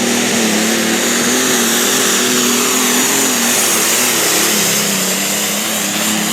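A pulling vehicle's engine running loudly and steadily, its pitch wavering slightly.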